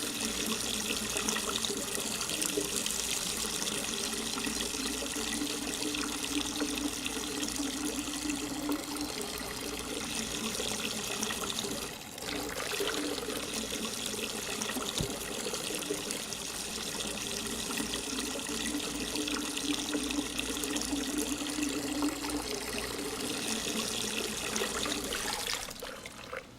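Running water, a steady rush and trickle lasting over twenty seconds, briefly dropping about twelve seconds in.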